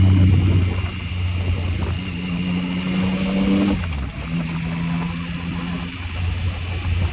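Yamaha MT-09's inline three-cylinder engine pulling steadily while riding, with the engine note falling a little under four seconds in and settling at a steady lower pitch.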